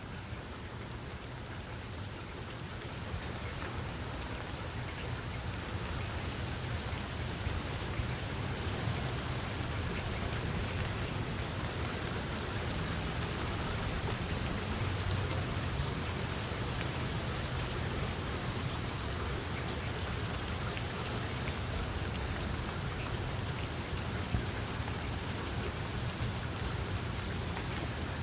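Steady rain falling, an even hiss that grows a little louder over the first few seconds and then holds, with a constant low rumble underneath.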